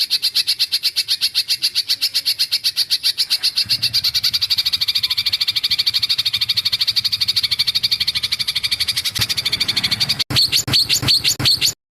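Recorded songbird singing a rapid, unbroken rolling trill of sharp high notes, about ten a second. This is bird-song training material for pet songbirds to copy. After a sudden cut near the end, a short burst of a different, faster series of notes follows and stops abruptly.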